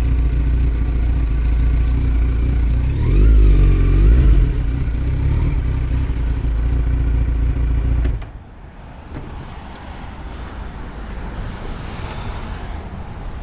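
Kawasaki Z900's 948 cc inline-four running through a Yoshimura muffler and Delkevic headers with no dB killer. There is one throttle blip about three seconds in, then the engine cuts off abruptly about eight seconds in, leaving only faint background noise.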